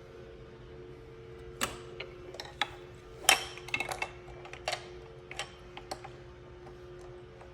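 Hard plastic LEGO Duplo pieces clicking and knocking as they are handled, a string of irregular sharp clicks with the loudest about three seconds in, over a steady low hum.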